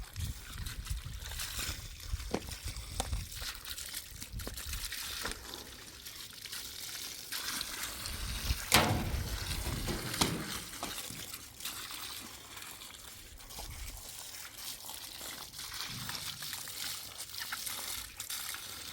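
Water trickling and splashing irregularly, with scattered small clicks and one louder sudden splash or knock about nine seconds in.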